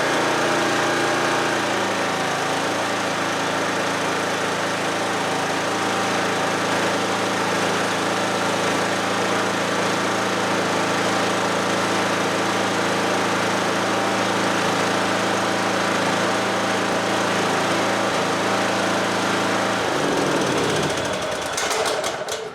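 Kohler Courage 20 hp engine on a Cub Cadet lawn tractor running steadily on its first start after installation, with a little choke. It runs smoothly enough to be judged a good replacement. Near the end it is shut off and spins down.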